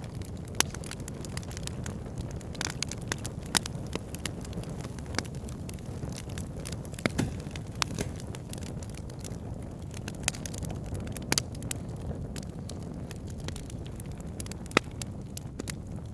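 Wood fire in a fireplace crackling over a steady low rumble of burning, with irregular sharp pops, a few of them much louder.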